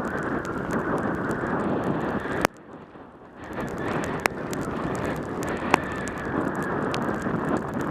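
Wind rushing over a helmet camera's microphone on a fast mountain-bike descent in pouring rain. A sharp click about two and a half seconds in is followed by a dip of about a second, then the rush returns, broken by a few more single sharp clicks.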